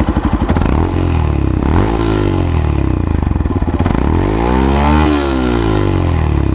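Yamaha FZ-X's 149 cc single-cylinder engine revved twice from idle to show off its exhaust note. Its pitch rises and falls about two seconds in, then climbs higher and falls back around five seconds, settling to a pulsing idle in between and at the end.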